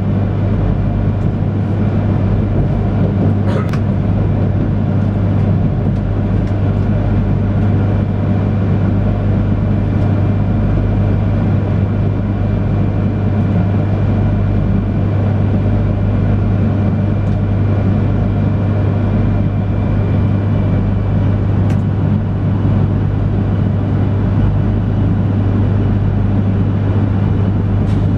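Cabin noise inside an E3-series Shinkansen car running into a station: a steady rumble with a strong low hum. A few faint clicks come through it.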